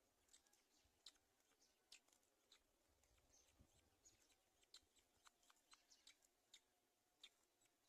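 Near silence with faint, irregular clicks and snips, about two or three a second: a black-winged kite's beak tearing at meat to feed its young.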